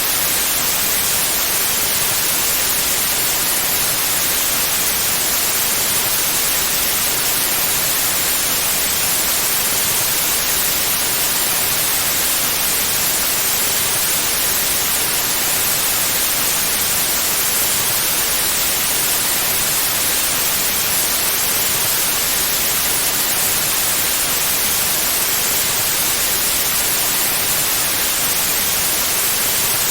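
Pure white noise: a steady, unchanging hiss spread evenly across all pitches, brightest in the treble.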